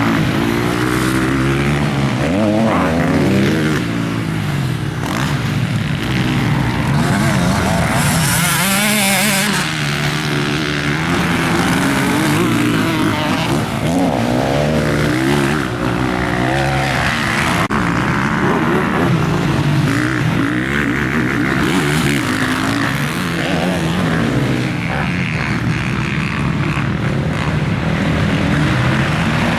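Motocross bike engine revving hard and dropping back over and over as it is ridden through the gears around a dirt track, with a burst of wind noise about eight seconds in.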